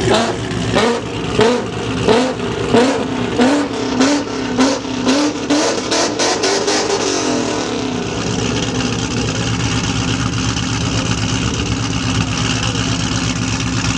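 Loud car engine revved over and over in quick rising blips, then held at a steady note from about halfway through.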